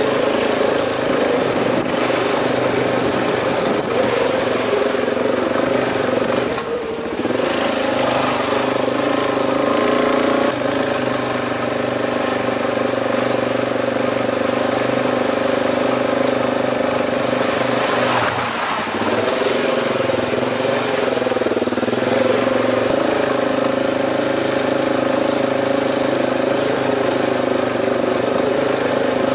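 Suzuki DR-Z400's single-cylinder four-stroke engine running steadily while the motorcycle is ridden. The engine note dips and changes pitch briefly twice, about seven seconds in and again around eighteen seconds.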